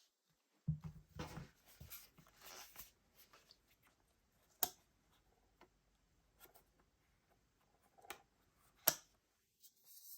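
Faint handling noises from unboxing a camera filter: rustling of packaging for a couple of seconds, then scattered light taps, with two sharp clicks, one near the middle and one near the end.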